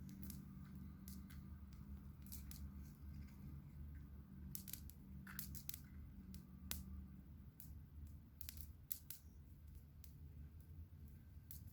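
Campfire crackling: irregular sharp pops and snaps of burning wood, some in quick clusters, over a faint low steady hum.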